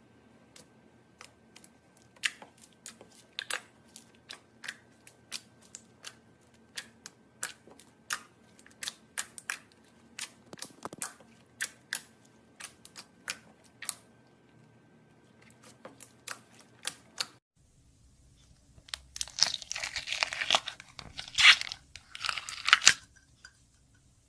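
Slime handled by hand, giving sharp pops or clicks at about two a second. After a cut it turns into a dense crackling crunch for about four seconds near the end, which is the loudest part.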